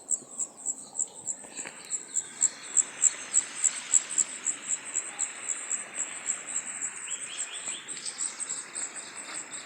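An insect chirping in a steady high-pitched pulse, about four chirps a second, over the rushing hiss of a river. A few quick chirps come in about seven seconds in.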